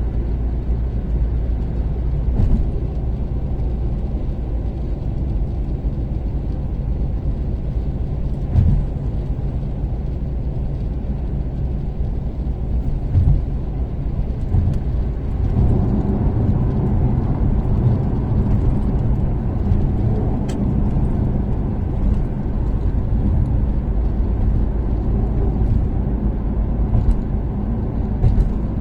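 Toyota Caldina's turbocharged 3S-GTE four-cylinder engine running steadily with tyre and road rumble while cruising on an expressway, with a few short thumps along the way. About halfway through the sound grows fuller and louder.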